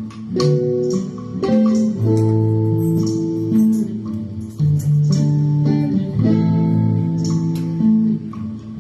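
Guitar played live, plucked chords changing about once a second in a steady rhythm, with no singing.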